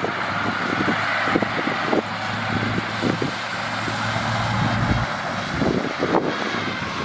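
Heavy earthmoving machinery running: a steady diesel engine hum with irregular clanks and knocks. The low hum drops away about five seconds in.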